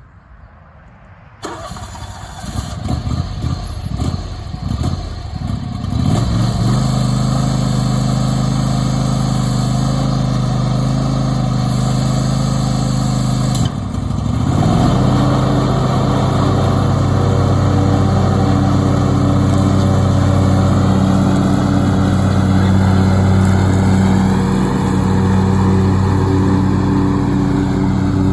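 John Deere X540 lawn tractor's V-twin engine being cranked by the starter, catching after a few seconds and settling into a steady run. The engine note drops briefly about halfway through, then picks back up and holds steady.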